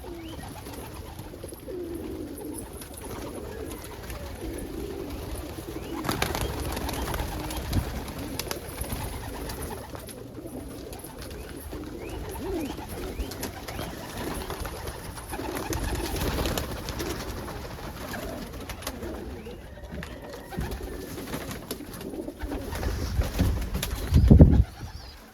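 Domestic pigeons cooing continually. A loud low rumble comes near the end.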